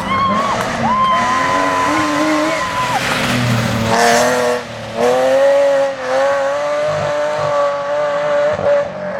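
Rally car engine at high revs. Its pitch climbs in the first few seconds, there is a short lift about four and a half seconds in, and then the revs are held high and steady with brief dips, like quick gear changes.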